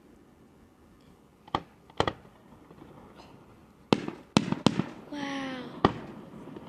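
Fireworks display: aerial shells bursting with sharp bangs over a low rumble. There is a pair of bangs about a second and a half to two seconds in, a quick run of bangs starting around four seconds in, and a last one near six seconds.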